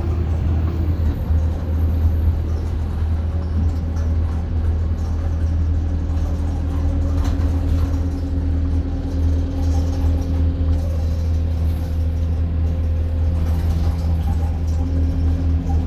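Bus engine and drivetrain running while the bus is under way, heard from inside the passenger cabin: a steady low rumble with a hum whose pitch steps slightly a couple of times.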